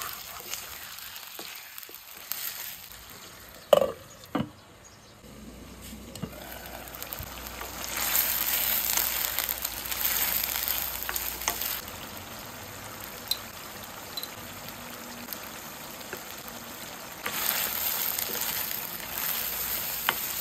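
Chicken pieces sizzling as they fry in a pan and are stirred with a wooden spatula. There are two sharp knocks about four seconds in, and the sizzle swells louder twice, briefly each time.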